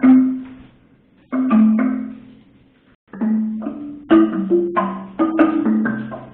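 Solo pitched percussion played as experimental music: single struck notes ringing out briefly, a short pause, then a quicker run of strikes on several different pitches.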